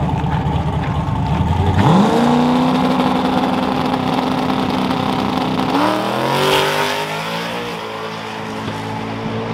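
Race truck engine making a full-throttle drag pass: a low rumble, then revs climbing sharply about two seconds in and holding, climbing again near six seconds, then growing fainter as the truck pulls away.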